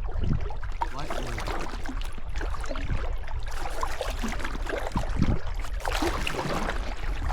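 Water splashing and lapping against a small paddled boat, over a steady low rumble.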